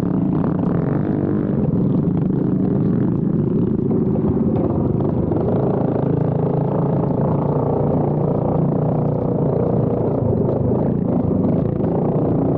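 Small motor-bike engines running steadily, a continuous engine drone.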